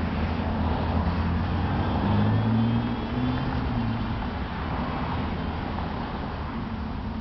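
Lotus Esprit's 3.5-litre twin-turbo V8 engine running, its note rising briefly about two seconds in and then settling as it slowly grows quieter.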